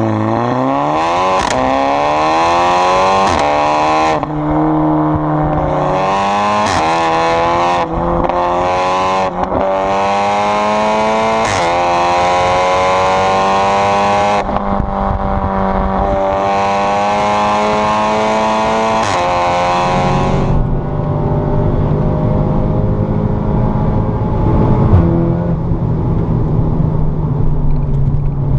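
Audi S3 8V's turbocharged 2.0-litre four-cylinder through an Armytrix valvetronic exhaust, accelerating hard with its pitch rising through several upshifts, each marked by a sharp crack. It then holds a steady pitch and, about 20 seconds in, drops to a lower steady drone with a few crackles.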